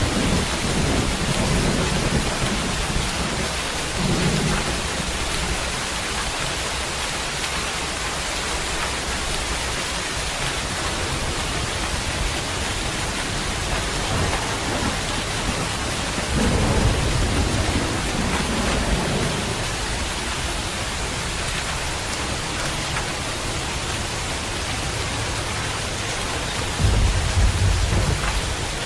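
Steady rain with thunder rumbling low underneath, swelling near the start, again around the middle, and most loudly near the end.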